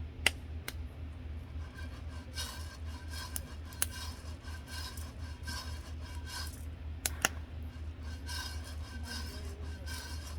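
Metal utensils being handled: a few sharp clicks and repeated short scraping or snipping strokes, over a steady low hum.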